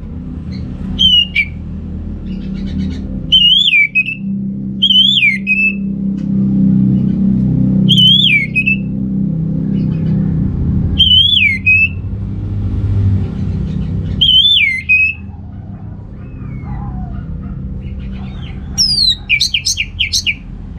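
Orange-headed thrush singing: a short whistled phrase that rises and falls, repeated every few seconds, then a quick run of sharp notes near the end, over a steady low background rumble.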